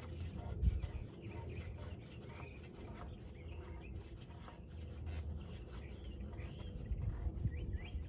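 Small birds chirping in short calls over a low steady rumble, with one soft knock under a second in.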